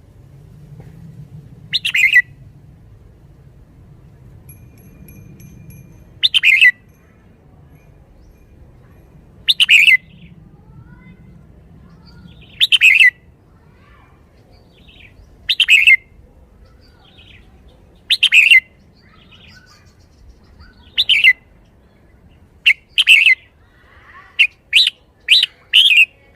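A red-whiskered bulbul singing short, loud, bright phrases about every three seconds, then a quicker run of calls over the last few seconds.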